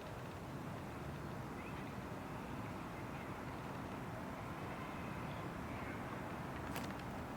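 Steady low outdoor background rumble with a few faint, short bird chirps and a couple of light clicks near the end.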